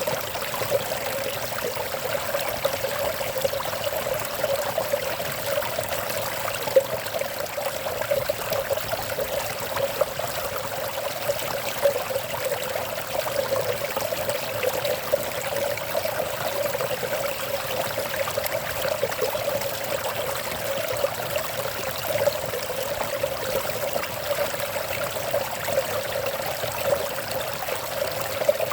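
Flowing water trickling and burbling steadily.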